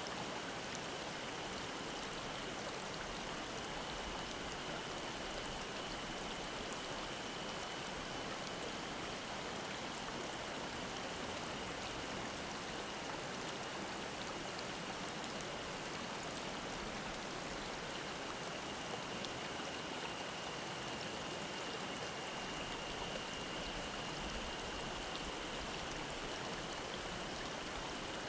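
Mountain stream babbling, a steady even rush of water, with a thin, steady high drone of cicadas singing over it.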